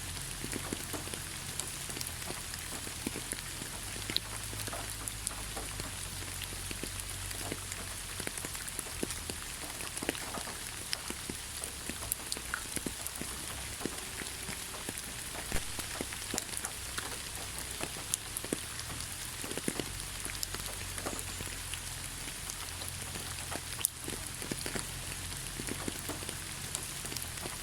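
Steady rain falling in a forest, a continuous hiss with many separate drops pattering close by.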